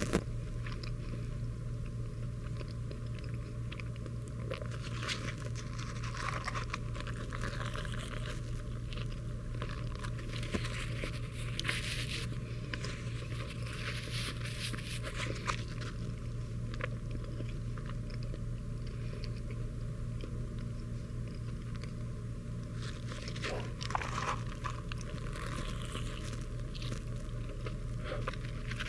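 A man biting into and chewing a cheeseburger, with scattered short crunches and mouth sounds over a steady low hum.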